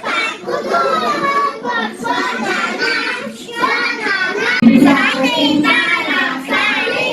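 Young kindergarten children singing an Atayal-language animal song together, with a sudden low thump about two-thirds of the way through.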